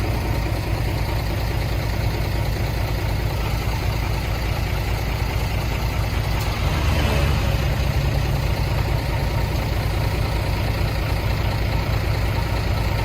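Heavy diesel engine of earthmoving machinery running steadily, a little louder about seven seconds in.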